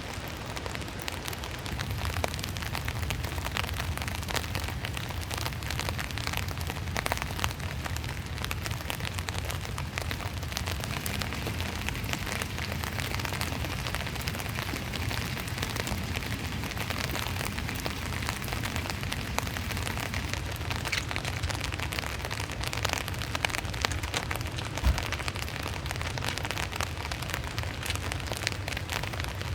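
Heavy typhoon rain pelting down in a dense steady patter, with a low rumble of strong wind underneath. A single sharp tick sounds near the end.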